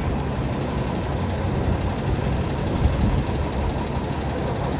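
City avenue traffic: a steady, dense rumble of vehicle engines and tyres.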